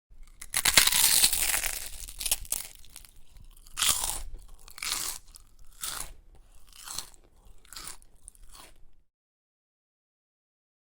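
A crunching sound effect: one long, loud crunch, then a series of shorter crunches about a second apart that grow fainter and stop.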